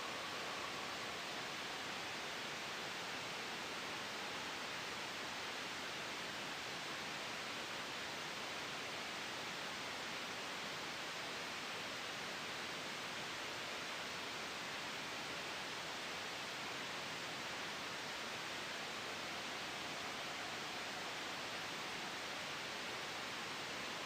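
Steady white noise made for sleep masking: an even, unchanging hiss with no breaks or swells.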